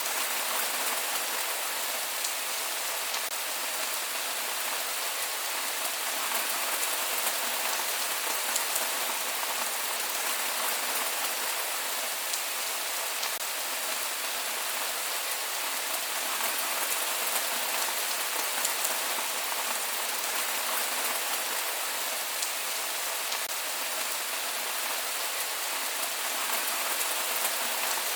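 Steady rain falling, a dense even hiss of drops on a surface with faint individual drop ticks, and no thunder.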